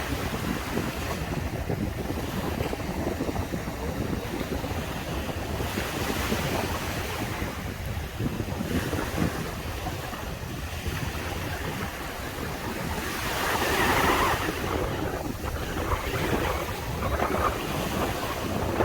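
Sea waves breaking and washing up on a beach, with wind rumbling on the microphone. The wash swells several times, loudest about two-thirds of the way through.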